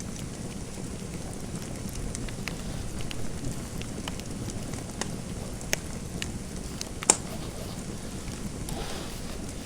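Wood fire crackling in a fireplace: a steady low rumble with irregular sharp pops and snaps, the loudest about seven seconds in.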